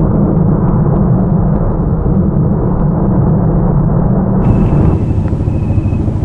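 Loud low rumble of a train passing over a steel girder bridge. About four seconds in the sound changes abruptly, and a faint steady high tone comes in.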